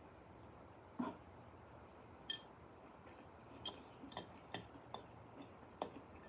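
Faint chewing of food, with about six short, scattered mouth clicks and smacks.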